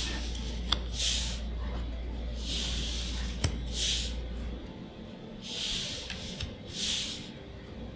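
Trading cards sliding across one another as they are revealed one by one: five soft swishes about a second apart, with two sharp clicks of card edges. A low background hum cuts off about halfway through.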